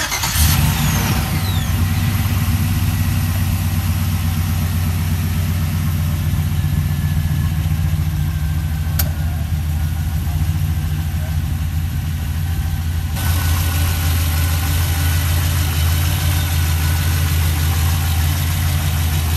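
Turbocharged 5.3-litre LS V8 of a 1971 Chevrolet C30 truck running steadily with a low, even drone. A brief falling whistle comes near the start, and a single click about nine seconds in.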